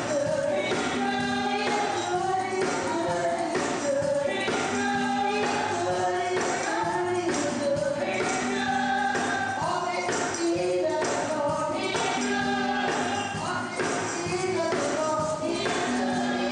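Live gospel music: a choir singing with a tambourine shaken and struck in a steady rhythm.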